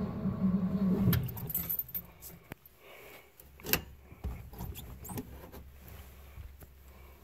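A 1954 Ford Crestline's engine, being started cold after three weeks standing, stops turning about a second in. After that there are only scattered faint clicks and light knocks from the dashboard controls, the sharpest a little past the middle.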